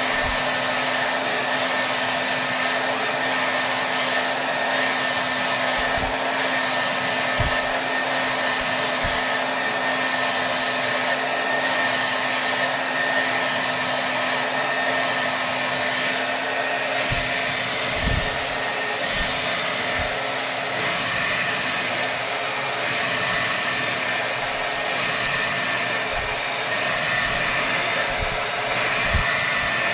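Hair dryer running steadily on its highest setting: an even rush of air with a steady motor hum and whine.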